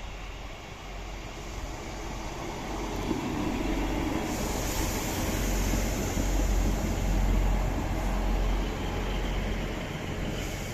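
A train passing through the station, a low rumble with wheel-on-rail noise that grows louder to a peak about two-thirds of the way through, then eases off.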